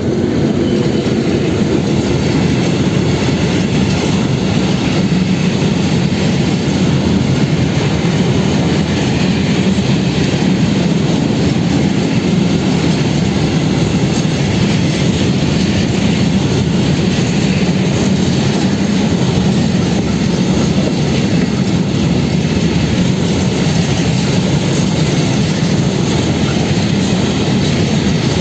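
A train passing close by: a loud, steady rumble of wheels rolling on the rails that lasts throughout.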